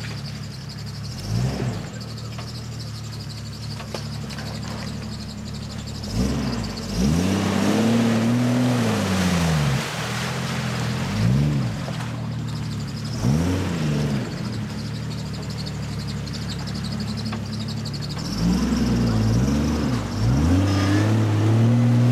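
Jeep Cherokee XJ engine working through deep mud and water, revved again and again in bursts that rise and fall in pitch between stretches of low running. The longest revs come about seven seconds in and near the end, with a rushing, churning noise over them.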